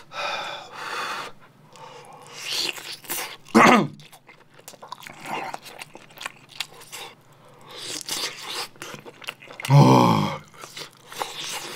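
Close-miked chewing of a mouthful of soft steamed dumpling and rice, with many small wet mouth clicks. Two short vocal sounds come about three and a half seconds and ten seconds in.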